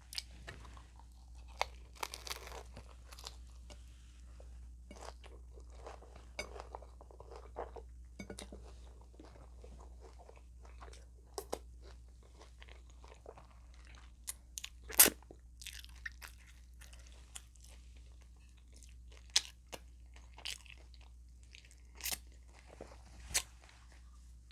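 Close-miked chewing and crunching of hard taco shells: irregular crisp crunches between quieter chewing, with a few much louder bites, the loudest about fifteen seconds in.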